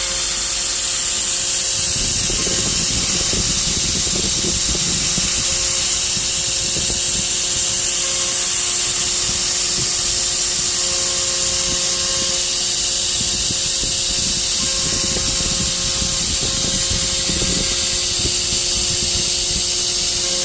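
CNC router spindle running steadily while cutting wood, with a rough, uneven cutting noise under it from about two seconds in.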